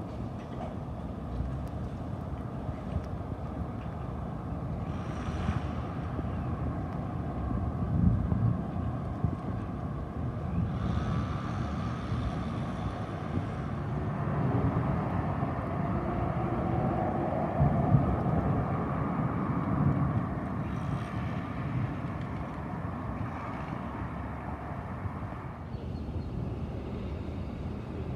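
Outdoor city street ambience: a steady low rumble of traffic with wind buffeting the microphone, swelling a few times as vehicles pass.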